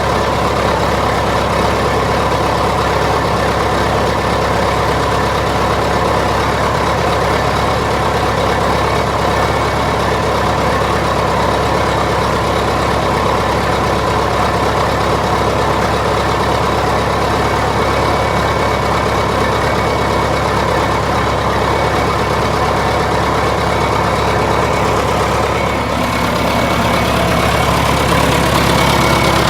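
Straight-piped diesel engine of a 1978 John Deere 450C loader idling steadily while warming up after a cold start, having sat for about four months. About 26 seconds in its tone changes and it gets slightly louder.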